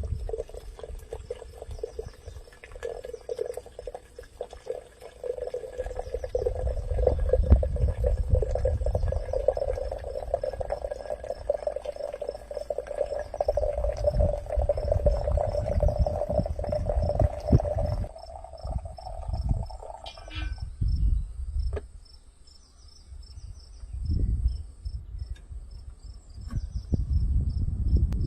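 Crickets chirping in a steady, repeating pattern. Beneath them, irregular low rumbles, and a steady hum that stops about twenty seconds in.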